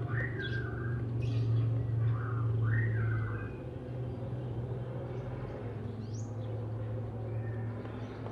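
Oriental magpie-robin singing short whistled phrases with quick rising notes, busiest in the first three seconds and sparser after, over a steady low hum.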